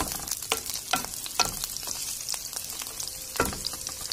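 Fresh peas and onion sizzling in oil in a frying pan while a wooden spoon stirs them. A steady sizzle runs under scrapes and knocks of the spoon against the pan, the loudest about three and a half seconds in.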